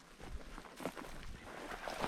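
Footsteps of a person walking, a few uneven crunching steps on the ground.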